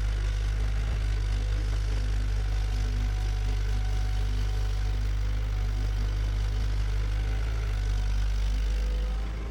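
Bulldozer's diesel engine running steadily with a deep, even rumble.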